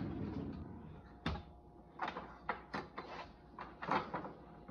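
A scattering of light knocks and clatters, about half a dozen, from a kitchen drawer and utensils being handled to fetch a spatula.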